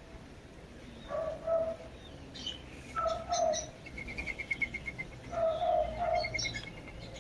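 Several birds calling and chirping. Short paired low calls come three times, a rapid high trill sounds about four seconds in and again near the end, and thin high chirps fall in between.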